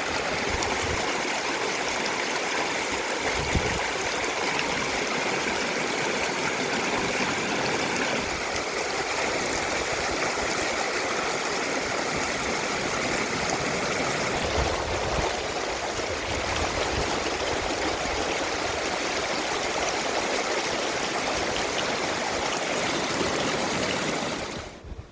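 Stream water rushing steadily over rocks, a loud, even flow that drops away suddenly near the end.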